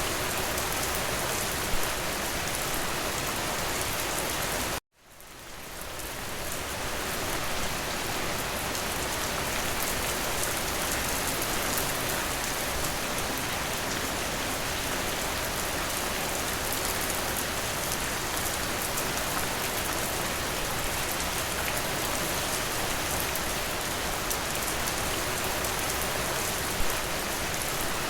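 Steady rain falling, a dense even hiss with a few louder drop hits. About five seconds in, the sound cuts out abruptly and fades back up over a second or two.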